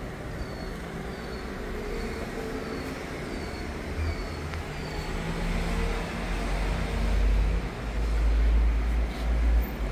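Steady vehicle or traffic rumble that grows louder in the second half. A faint high chirp repeats about twice a second through the first half.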